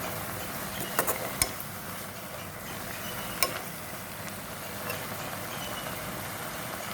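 Chopped onions frying in oil in a pan, a steady sizzle, with a spoon clinking against the pan a few times about a second in and once more midway.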